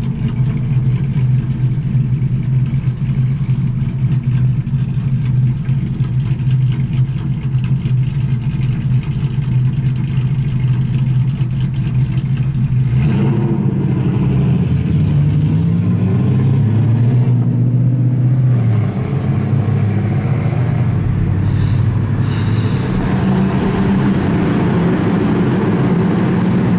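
Ford Mustang V8 engine running while driving: a steady low drone at first, then from about halfway the pitch rises and falls as the engine revs up and changes speed.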